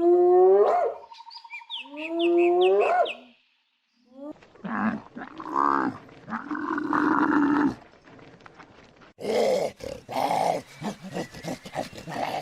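Animal calls: two loud pitched calls in the first three seconds, then after a short gap a run of rougher, noisier calls.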